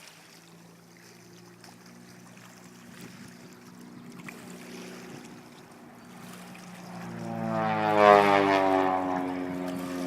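Piston-engined propeller aircraft flying past: a distant drone swells quickly about seven seconds in, peaks overhead, then the engine note drops in pitch as it passes and heads away.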